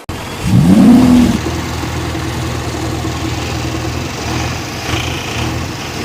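A vehicle engine revving up with a quick rise in pitch in the first second, the loudest part, then running steadily at a fast idle.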